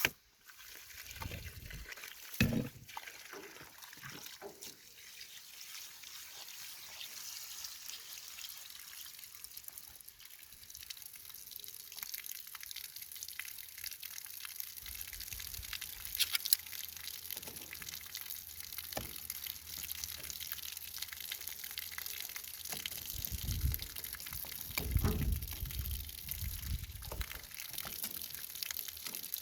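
Water spraying in a steady hissing rush from a live, pressurised black alkathene water pipe, with dull knocks and bumps from working on the pipe a couple of seconds in and again near the end.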